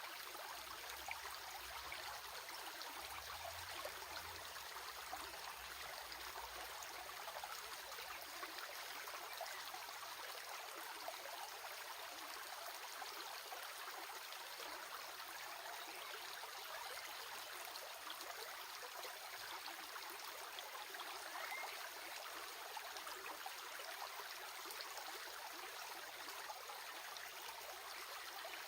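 Water of a stream flowing steadily, an even splashing hiss with no change throughout.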